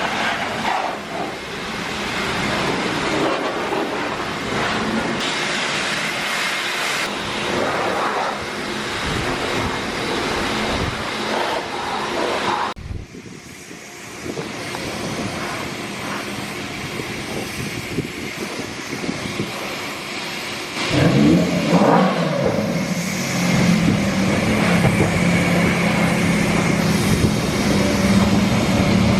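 A car engine starts with a short rev about two-thirds of the way through, then idles steadily. Before that there is a steady rushing noise.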